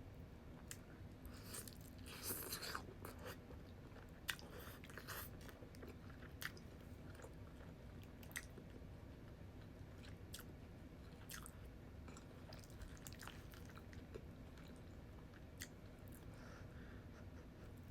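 Faint close-up eating sounds of a person chewing food, with scattered small wet clicks, busiest a couple of seconds in and again around five seconds.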